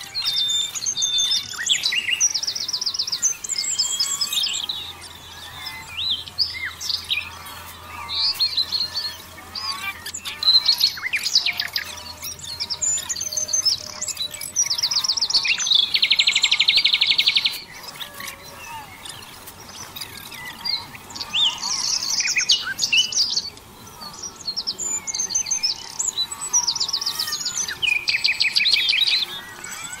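Birdsong: several birds chirping, with fast trills of rapidly repeated notes coming every few seconds, the longest about halfway through.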